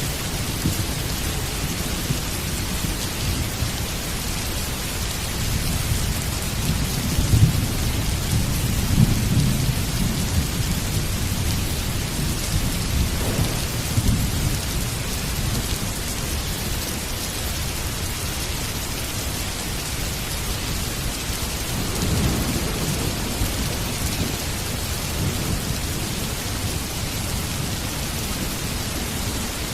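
Heavy rain falling steadily, with rolling thunder rumbling underneath that swells several times, strongest about seven to ten seconds in and again around twenty-two seconds in.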